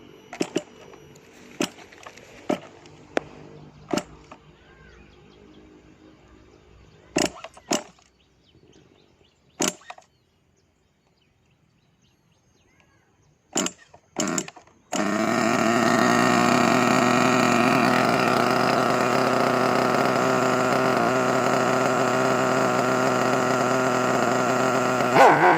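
Several sharp clicks and knocks, then, about fifteen seconds in, a Caster Racing buggy engine suddenly running loud and steady at an even pitch for the remaining ten seconds.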